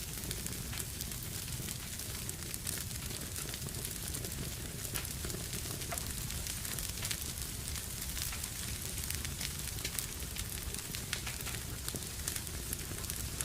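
Wood fire burning in a fireplace: a steady low rumble and hiss with frequent small crackles and pops.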